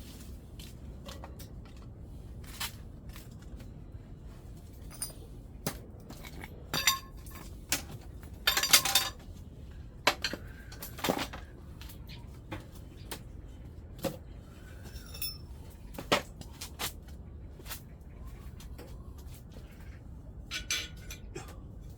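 Scattered metallic clinks and clanks of tools and parts being handled while working on a wood-burning stove, with a louder cluster of clatter about nine seconds in.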